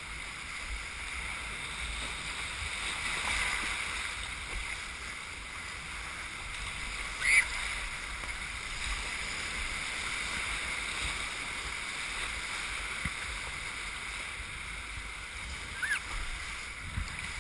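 Whitewater rushing steadily past a kayak running a river rapid. A brief, louder high sound rises above the water noise about seven seconds in.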